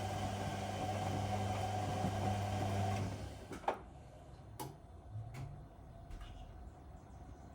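Whirlpool Indiana 1400 washing machine running mid-wash with a steady hum that stops about three seconds in. A few light clicks and knocks follow as the machine pauses.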